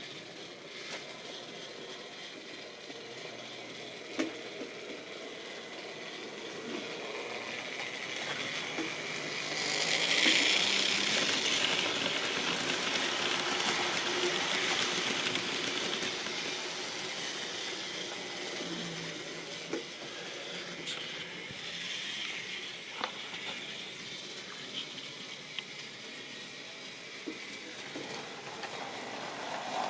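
Model railway train running on the track, its motor and wheels growing louder as it passes closest about ten seconds in, then fading away. A few sharp clicks along the way, typical of wheels crossing rail joints.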